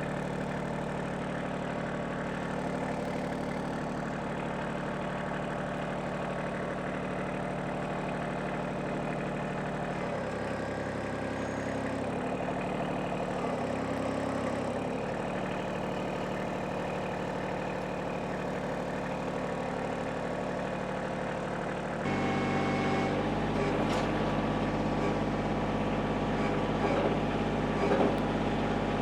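Kioti CK2610 compact tractor's diesel engine running steadily while handling a heavy oak log, a load the tractor can only just lift. The engine grows louder about three-quarters of the way through.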